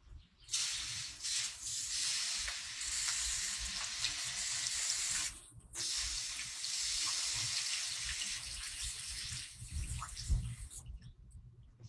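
Water running in a steady hiss during plant watering, in two long stretches with a short break about five seconds in.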